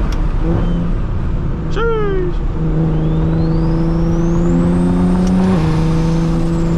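Straight-piped BMW 335is N54 inline-six with a single-turbo conversion, driving under load with a steady exhaust note. A turbo whistle climbs over a few seconds and falls away about five and a half seconds in, as the engine note steps at a shift.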